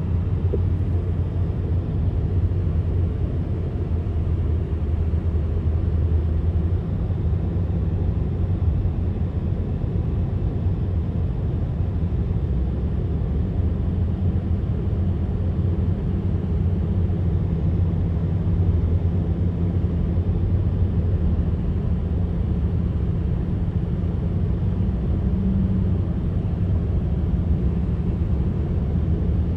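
Steady low rumble of trucks driving, with an even engine drone.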